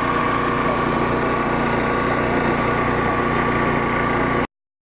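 A small engine idling steadily, with a steady whine near the middle of its sound; it cuts off abruptly about four and a half seconds in.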